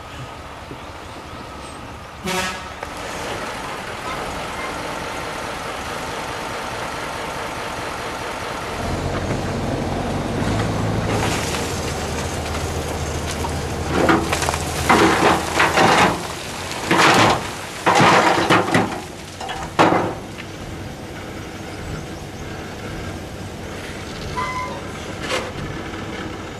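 Heavy vehicle engine running steadily, with a string of loud, short bursts of noise about halfway through.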